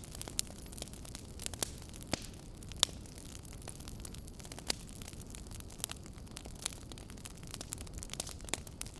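Wood fire crackling: irregular sharp pops and snaps over a low steady rumble of burning, with a few louder pops, the loudest nearly three seconds in.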